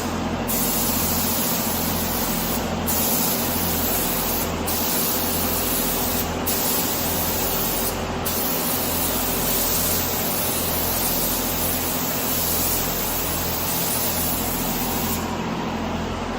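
Compressed-air paint spray gun hissing steadily as paint is sprayed. The hiss breaks off briefly four times in the first half, at about every second and a half to two seconds, and stops about 15 seconds in. A steady low hum runs underneath.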